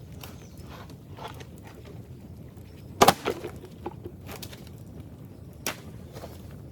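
Dry old bamboo being broken up: a loud splintering crack with a few quick follow-on cracks about halfway through, and lighter snaps and a single sharp crack around it.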